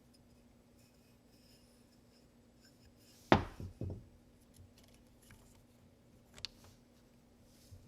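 Tools and parts being handled: one sharp knock about a third of the way in, then a few quieter knocks, and a single click later over a faint steady hum.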